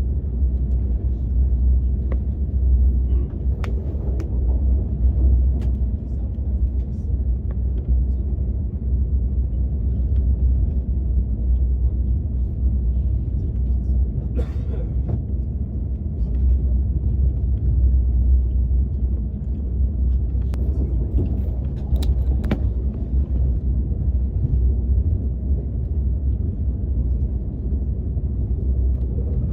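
Steady low rumble of a KTX high-speed train heard from inside the passenger car while it runs, with a few faint clicks and a brief rustle about halfway through.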